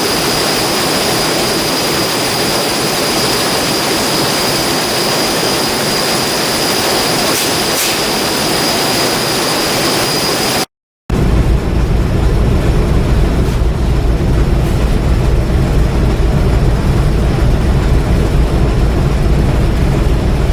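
Steady ship machinery noise in two takes. First comes an even rush with a steady high whine. Then, after a cut about halfway through, a deep, heavy engine rumble runs steadily.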